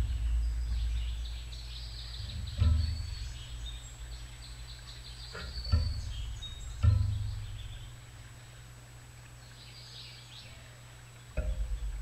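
A chickadee fluttering onto and off the metal perch of a tube seed feeder right at the microphone, giving several low thumps and brief wing buffeting. Small birds chirp faintly in the background.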